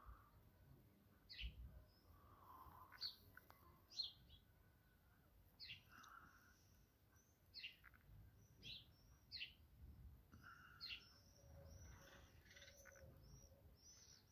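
Birds chirping in the background: short, high, downward-sweeping chirps about once a second, coming closer together toward the end, over faint low outdoor rumble.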